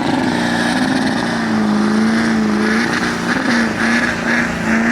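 Truck engine held at high, steady revs during a burnout, its pitch wavering slightly. In the second half a higher, pulsing hiss comes in about three times a second.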